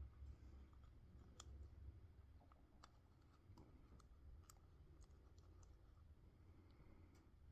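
Faint, scattered light clicks of small parts and tools being handled, over a low steady hum.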